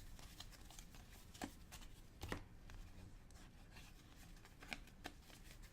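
Faint handling of trading cards, soft clicks and slides as cards are flipped through one at a time.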